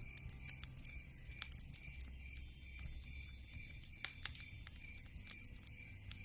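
Campfire crackling and popping in irregular sharp snaps, with a night insect chirping steadily about three times a second behind it.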